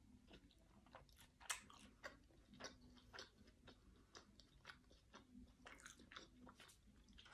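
Close-up faint chewing of a taco with lip smacking: irregular wet smacks and clicks from the mouth, the loudest about a second and a half in.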